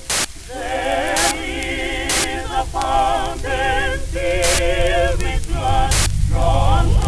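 Music: voices singing a slow melody with heavy vibrato in short phrases, cut by sharp percussive hits every second or two. A deep bass swells in near the end.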